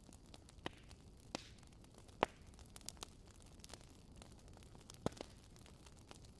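Campfire crackling softly: scattered, irregular pops and snaps over a low hiss, the sharpest pop a little over two seconds in.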